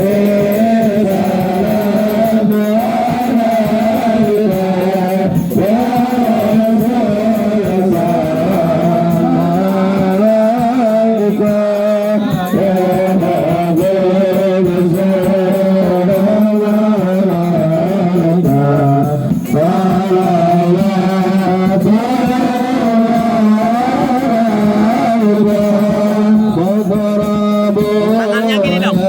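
Islamic devotional chanting of sholawat for the maulid: a melodic sung recitation in Middle Eastern style, continuous, with long held notes that bend and waver in pitch.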